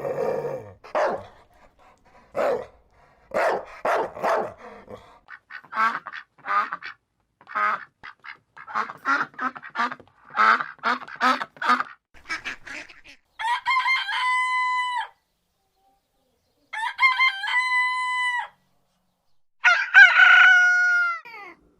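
A rooster crowing three times, each crow a long, held, high call that drops off at the end, the last one the loudest. Before the crows comes a long run of short, quick animal calls.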